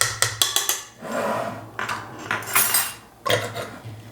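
Metal teaspoon clinking against a kitchen container, a quick run of sharp taps in the first second that knock Dijon mustard off the spoon. Scraping follows, with another few clinks near the end.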